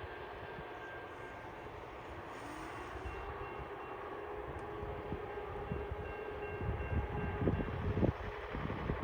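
Track maintenance-of-way machines running on the rails: a steady mechanical rumble that grows louder in the last few seconds, with a cluster of low knocks about seven to eight seconds in.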